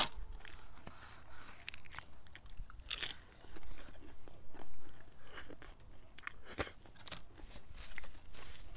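Close-up chewing and biting of crispy fried food, a scatter of short crunches and crackles.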